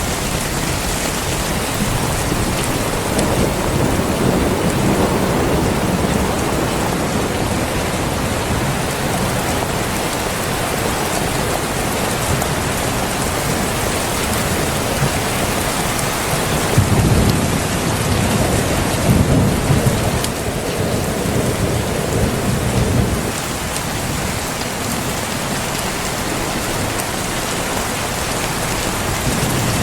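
Heavy rain pouring steadily in a thunderstorm, with deep rumbles of thunder rolling in, most strongly about two-thirds of the way through.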